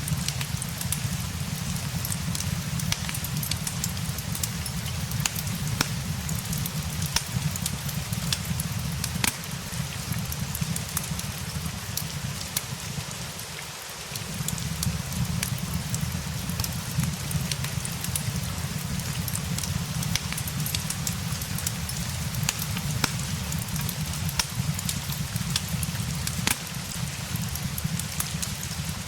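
Steady rain mixed with a crackling fireplace: scattered sharp pops and snaps over an even hiss and a low rumble, the rumble dropping out briefly about halfway through.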